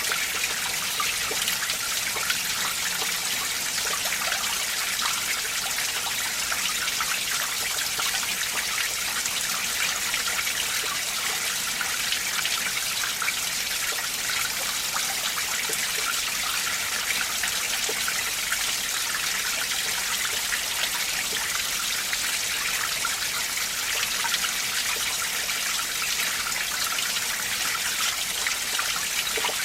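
Winter mountain stream flowing and splashing, a steady, even trickling rush with most of its sound high and hissy.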